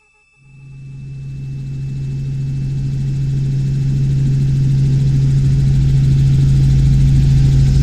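Robinson R44 Clipper II helicopter cabin noise in flight: the steady drone of its six-cylinder piston engine and rotors, with a strong low hum. It fades in about half a second in and keeps growing louder over the next few seconds before holding steady.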